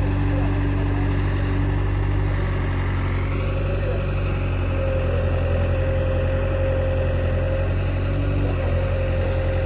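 Heavy diesel engine running steadily at a constant speed, with a steady whine joining in about four seconds in.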